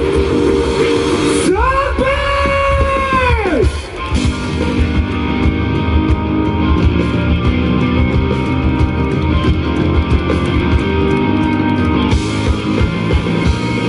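Live rock band playing loud, with guitars and drums: a held note about two seconds in that slides down in pitch, a short dip, then the band plays on.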